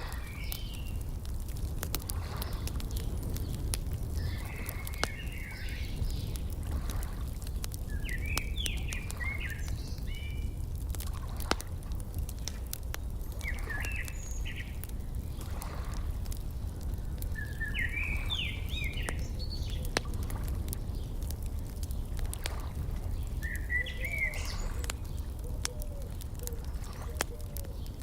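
Wood fire crackling with scattered sharp pops over a steady low rumble, while a songbird sings short chirping phrases every few seconds.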